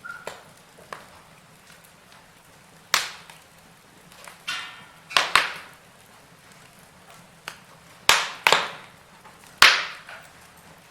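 Wood fire crackling in a fireplace: irregular sharp pops and snaps, about half a dozen loud ones, over a faint steady hiss.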